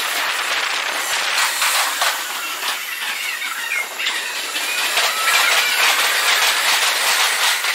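Meitetsu electric trains running through the station tracks, sped up four times: a dense run of wheel clicks over rail joints and points, with short squeals rising and falling in pitch.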